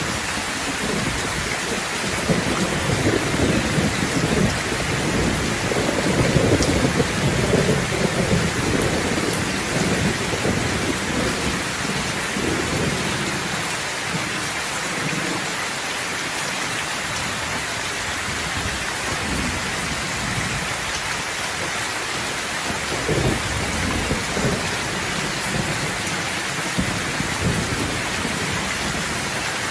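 Steady rainfall with thunder rumbling, the rumble swelling from about two seconds in to near ten seconds, then a shorter roll a little past the middle.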